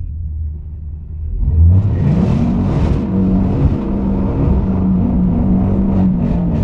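Dodge Challenger Hellcat's supercharged 6.2-litre V8 running low, then revved hard about a second and a half in and held at high revs under heavy throttle.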